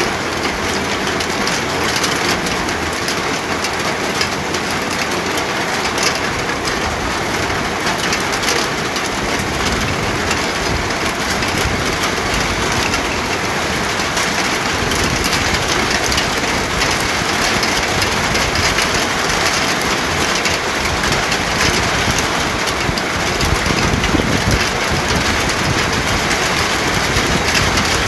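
Steady rain falling: a dense, even hiss of countless drops with a low rumble beneath, unchanging throughout.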